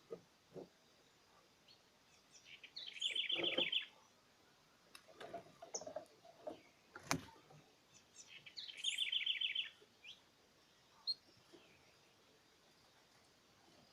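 A small wild songbird singing a short, rapid trill twice, about five seconds apart, with a few scattered high chirps and a sharp click in between.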